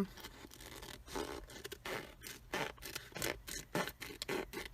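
Scissors snipping through folded tracing paper, a series of short scratchy cuts spaced about half a second to a second apart, beveling the corners of the folds.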